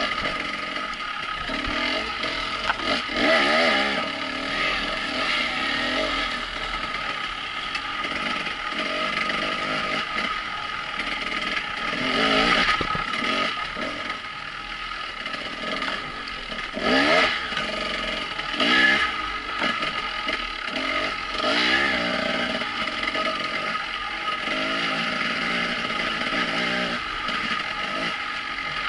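Trail dirt bike's engine running steadily along a rough forest track, revving up and back down in several throttle bursts.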